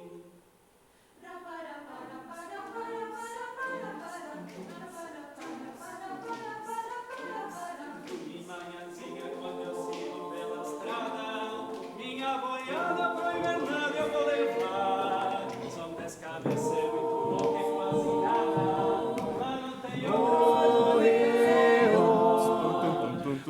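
An a cappella vocal ensemble singing in several-part harmony with no instruments. The voices enter after a second of silence and build in loudness, with clear steps up about halfway through and again near the end.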